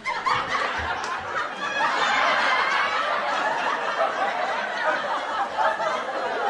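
Canned audience laughter: many people laughing at once, cutting in suddenly.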